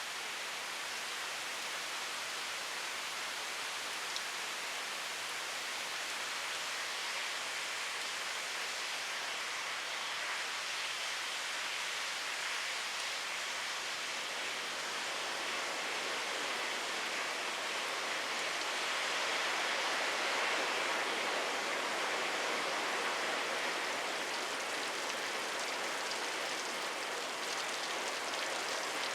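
Steady rain falling, an even hiss of many drops with a few faint separate drop ticks, swelling slightly in the middle.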